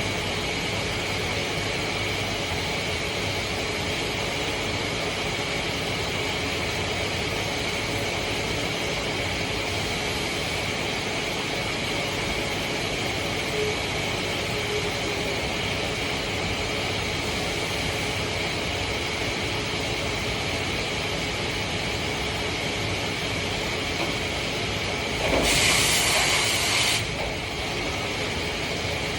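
CNC machine running steadily, a continuous mechanical hum with a steady whine over it. About 25 seconds in, a louder hiss comes in for a second or two, then stops.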